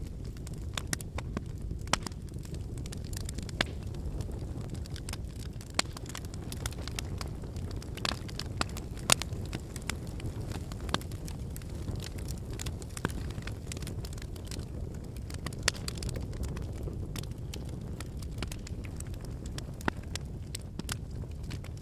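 Wood campfire burning: a steady low rush of flames under irregular crackling and popping of the burning logs, with a few louder pops.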